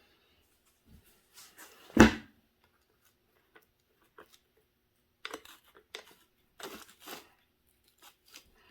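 A single sharp tap about two seconds in, as the pin in the RC car's rear differential bracket is tapped down into place, then lighter clicks and handling noise of small parts.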